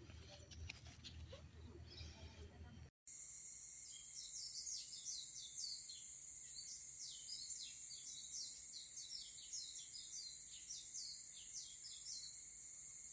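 Low rumble and rustling, then, after a short break about three seconds in, small birds chirping in quick runs of short falling notes over a steady high-pitched insect drone.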